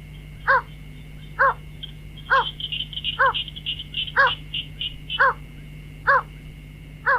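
White-breasted waterhen calls: a nasal honking note repeated about once a second, eight times, with a faster, higher twittering chatter through the middle and a steady high-pitched hum behind.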